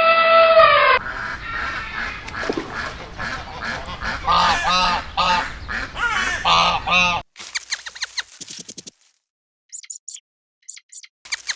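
A flock of geese honking, with repeated short calls coming in quick runs. It follows a steady held tone that cuts off about a second in, and gives way near the end to sparse, short, high-pitched chirps.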